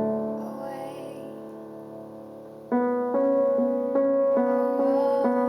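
Piano played solo: a chord struck and left ringing as it fades, then a louder new chord about halfway through, followed by chords repeated in a steady rhythm.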